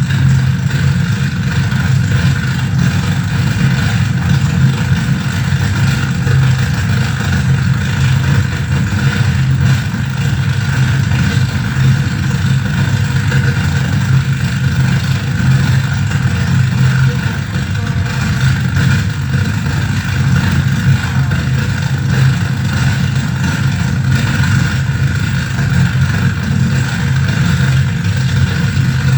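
Harsh noise drone from a mixer-feedback rig run through a reel-to-reel tape machine and reverb: a dense, unbroken wall of sound with a heavy low hum and a buzzing band higher up.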